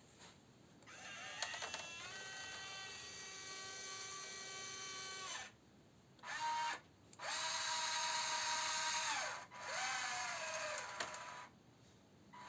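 Small electric gear motors of an RC-converted Bruder Scania crane truck whining in runs: one long run, a brief blip, a second long run, then a shorter one whose pitch rises and falls as it starts and stops.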